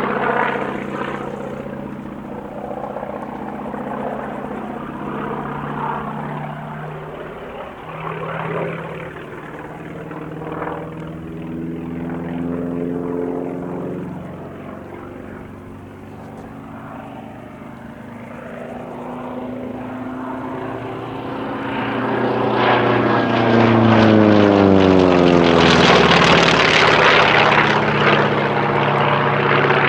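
North American T-28 Trojan's Wright R-1820 nine-cylinder radial engine and propeller droning, rising and falling as the plane flies its display. About two-thirds of the way through it grows loud in a low flyby, its pitch dropping as it passes.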